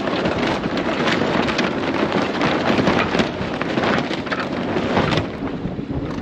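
Sailcloth of a mainsail flapping and crackling in the wind as it is hauled up on its halyard. The dense crackle eases a little about five seconds in.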